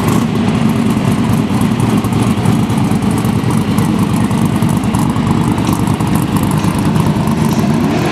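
White BMW E30 drag car's engine idling loud and rough, with a rapid, uneven pulse and no revving.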